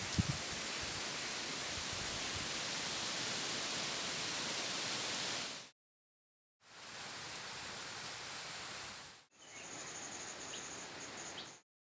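Outdoor ambience in three clips broken by sudden dropouts: a steady rushing noise, then a fainter one, and in the last clip an insect's high, steady trill with a few short chirps over it.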